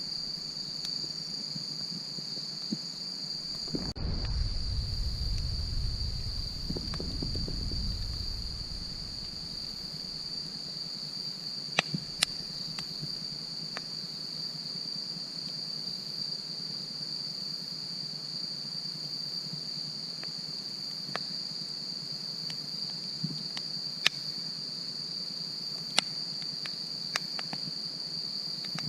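Crickets trilling in one steady, high, unbroken note, with a few sharp pops and cracks from a wood campfire. A low rumble rises for a few seconds about four seconds in.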